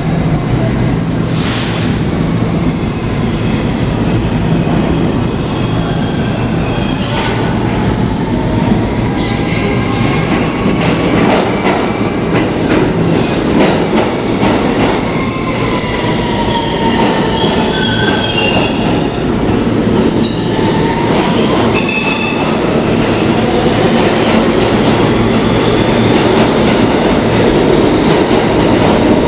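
Kawasaki R160B subway car with Siemens propulsion running at speed between stations, heard from inside: a steady rumble with scattered wheel clicks over rail joints, plus faint motor and wheel tones that slide up and down in pitch.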